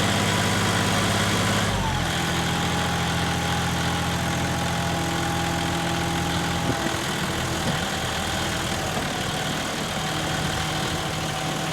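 John Deere 5210 tractor's diesel engine running under the load of an 18-disc harrow. Its steady note steps lower about two seconds in and turns rough and uneven about seven seconds in.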